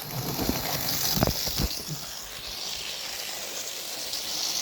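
N gauge model locomotive running along the track: a steady high hiss from the small motor and wheels, with a few light clicks about a second in.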